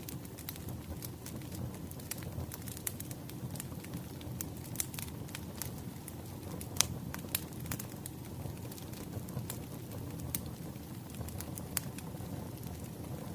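Wood fire crackling: a steady low rumble of flames with irregular sharp pops and snaps, the loudest a little before seven seconds in.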